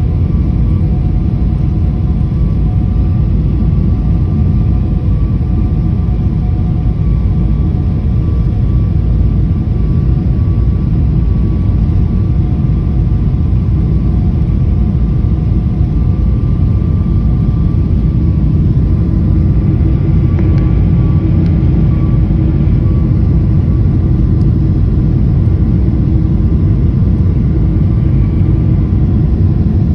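Steady cabin noise of a Boeing jet airliner in flight: a loud, even rumble of the engines and the airflow, with a few steady whining tones above it.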